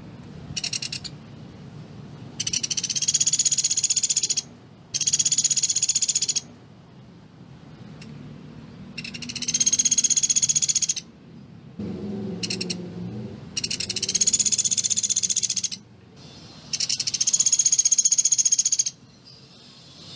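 Pelatuk beras (Sunda pygmy woodpecker) calling: rapid, dry rattling trills of about one to two seconds, repeated about seven times with short pauses, some only brief bursts.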